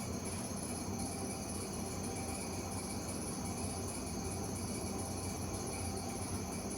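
Steady running sound of a tram heard from on board: a constant low rumble with a thin, high-pitched whine above it.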